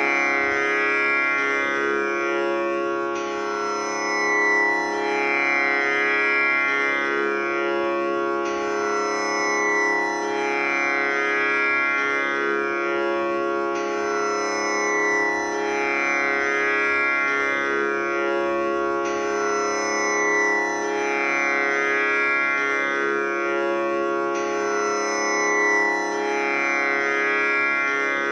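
Tanpura tuned to C# playing a continuous drone: its strings plucked in turn in a cycle that repeats about every five and a half seconds, each note ringing on with a rich buzzing overtone.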